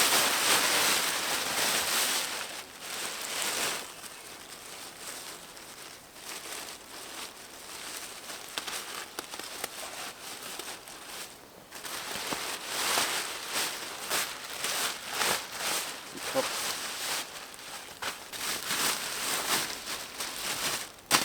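Plastic garbage bags crinkling and rustling as they are handled, in uneven bursts, loudest in the first few seconds. A sharp click near the end.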